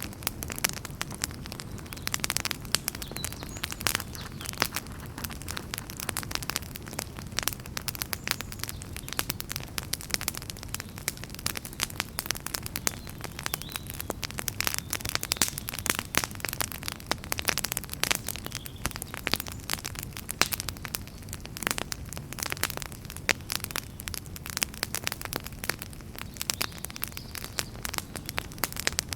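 Wood fire burning in a fireplace, crackling with a dense run of sharp pops over a steady low rumble.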